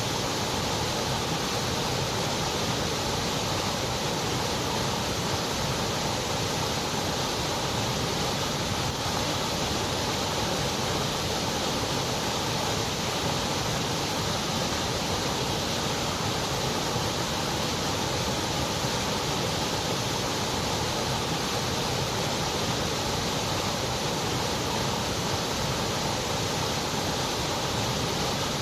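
Continuous white noise: a steady, unchanging hiss at a constant level.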